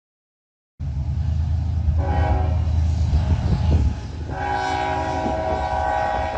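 Diesel freight locomotives passing with a heavy low engine rumble, then sounding a multi-note air horn twice: a first blast of about two seconds, then a longer second blast that runs on.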